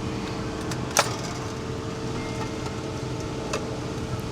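Steady machine hum with a couple of held tones, broken by one sharp click about a second in and a fainter click near the end.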